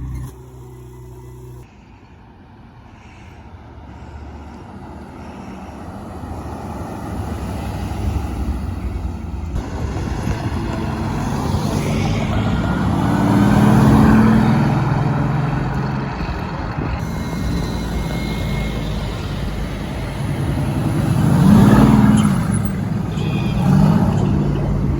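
Supercars driving past with their engines revving as they accelerate. The sound builds from quiet to two loud pass-bys, about halfway through and near the end, each rising and then falling in pitch.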